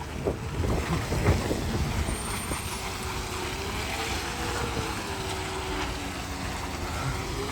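Garbage truck engine running as the truck turns around: a steady low rumble with a faint, slowly wavering whine, and no reverse beeper sounding.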